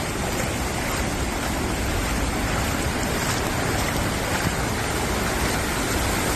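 Flash-flood water rushing, a steady even noise with no let-up.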